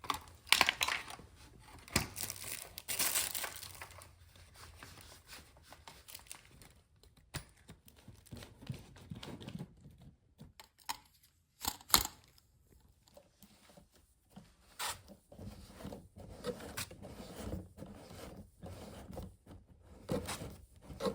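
Plastic packaging crinkling and tearing as parts are unwrapped and handled, with scattered clicks and knocks of plastic parts being set down.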